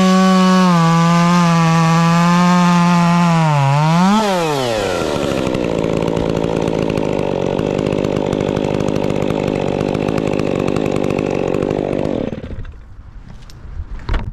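Two-stroke chainsaw running at high speed with a wavering pitch, revving up and dropping sharply about four seconds in, then running lower and rougher until it cuts out near the end.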